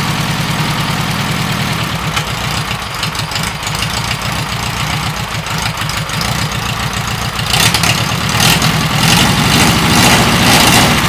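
A ZAZ car engine running on its own outside the car, at a rough, pulsing idle; about three-quarters of the way through it gets louder.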